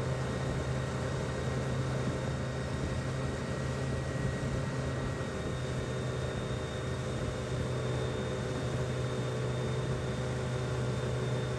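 Motorboat engine running at a steady speed: an even, unbroken low drone with a faint high whine.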